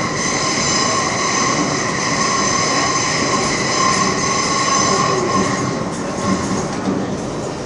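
Metro train running through an underground tunnel: a steady rumble with high, level-pitched tones from wheels and running gear that fade away about six seconds in.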